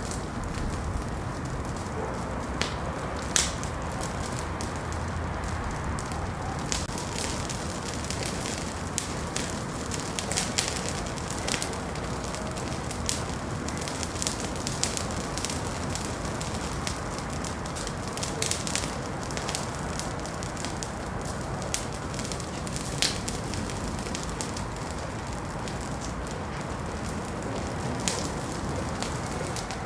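Wood fire burning in a fireplace: a steady low rush with irregular sharp crackles and pops scattered throughout.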